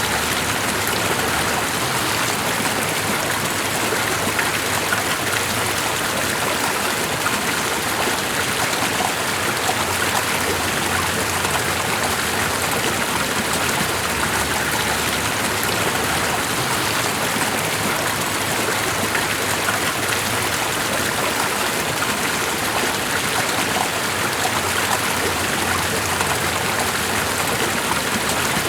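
Steady rushing water, an even unbroken wash of sound with fine pattering texture throughout.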